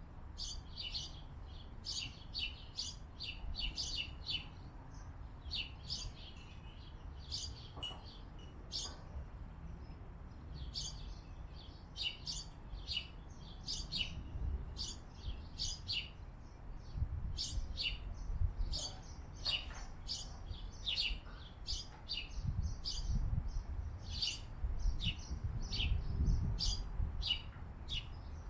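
Small birds chirping: many short, high chirps in quick succession, several birds calling over one another. A low rumble runs underneath, stronger in the last few seconds.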